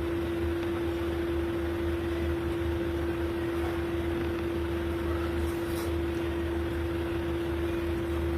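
Steady mechanical hum with a constant mid-pitched tone over a low drone and a wash of noise, unchanging throughout.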